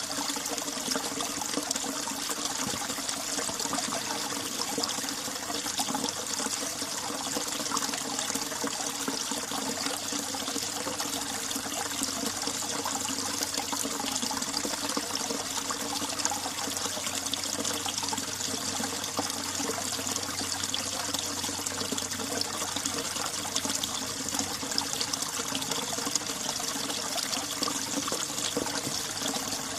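Mountain valley stream running, a steady, unbroken rush of flowing water.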